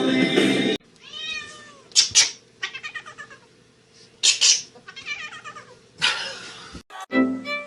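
A cat meowing and yowling repeatedly: about half a dozen drawn-out calls with short gaps, two of them louder and sharper. Music plays briefly at the start and again near the end.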